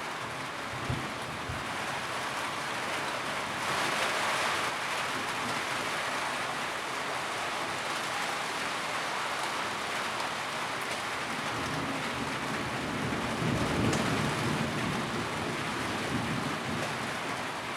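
Steady rain drumming on a tin roof, a dense hiss of drops with a brief heavier patch a few seconds in and a low rumble swelling near the end.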